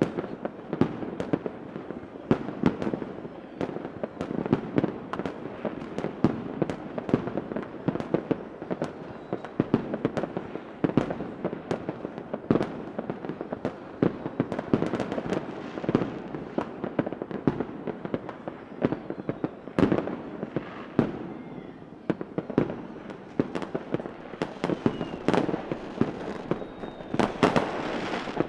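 Fireworks display sound effect: a dense, continuous barrage of cracks and bangs over steady crackling. A few faint rising whistles of launching rockets come in late.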